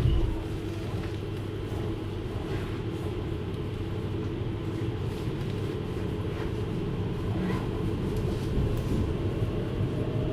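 Running noise inside a JR Hokkaido 733 series electric train: a steady rumble of wheels on rail under a low motor hum. There is a short knock at the start, and a faint rising whine comes in near the end.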